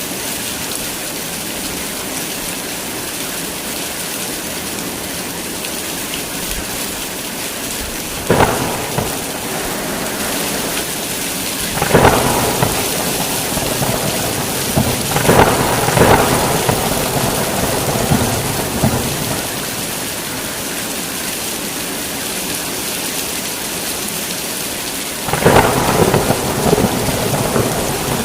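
Heavy, steady rain with thunder breaking in several times: a sharp crack about eight seconds in, rolling rumbles from about twelve to nineteen seconds in, and another loud clap and rumble near the end.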